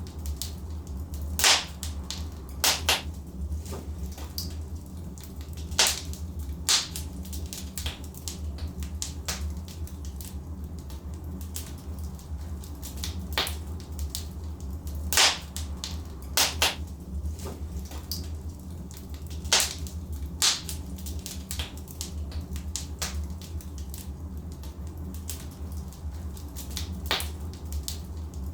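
Logs burning in a fireplace, crackling with irregular sharp pops, a handful of them much louder than the rest, over a steady low rumble of the fire.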